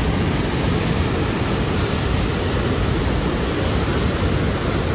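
Loud, steady rush of white water from the Merced River along the Mist Trail, an even hiss with no breaks.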